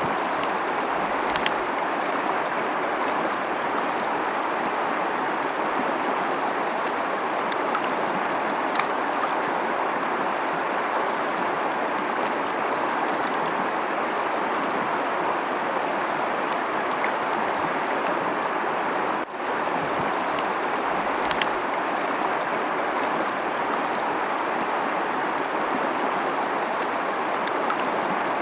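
Fast-flowing river rushing steadily, with small splashes ticking through the constant flow.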